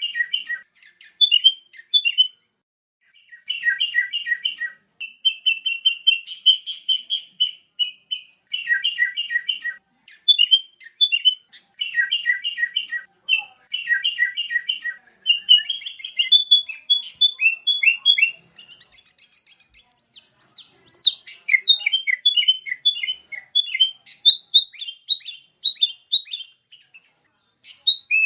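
Sooty-headed bulbul singing: phrase after phrase of quick, bubbly chirping notes, each run a second or two long with brief pauses between.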